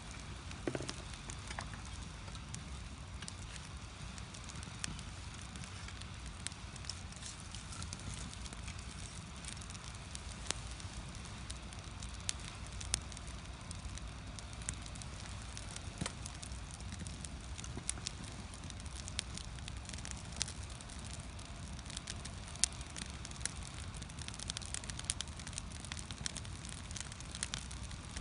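Firewood burning in a traditional Korean agungi firebox, crackling with many scattered sharp pops over a steady low rumble of the flames; the pops come more often near the end.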